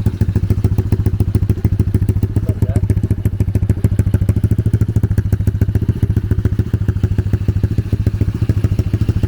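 A 125cc dirt-bike engine, fitted to a home-built drift trike, idling steadily with a choppy, pulsing beat while it warms up.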